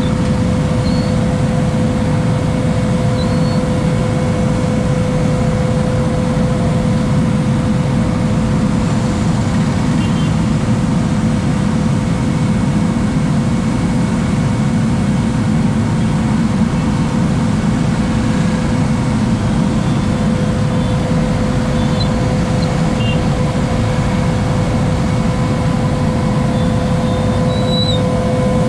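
Truck-mounted road sweeper running: a steady low engine rumble with a constant high whine held on one pitch throughout.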